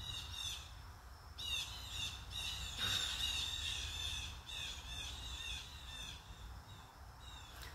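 Small birds chirping in quick runs of short, high calls, busiest in the middle.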